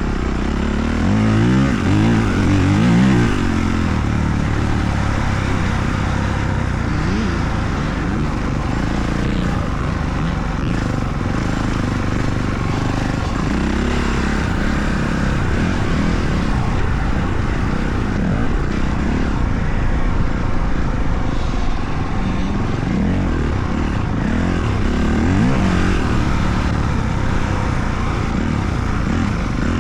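Motocross dirt bike engine running as the bike is ridden, its revs rising and falling repeatedly over a steady rushing noise.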